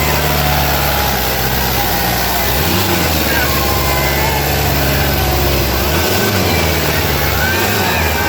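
Sonalika DI 750 III tractor's diesel engine running hard while pulling a harrow, its pitch dipping and recovering a few times as the load changes.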